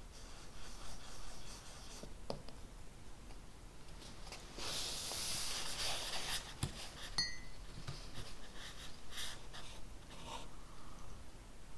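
Handwriting on paper: scratching strokes with a few light taps. The scratching is busiest and loudest in the middle, and a brief high squeak follows it.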